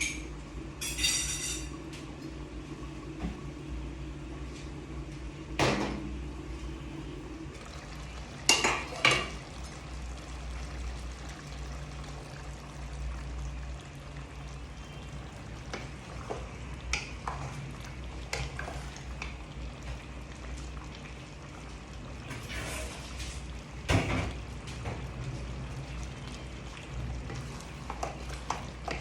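Cooking utensils clinking and knocking against a pot and dishes every few seconds, with a few louder strikes, over a steady low hum.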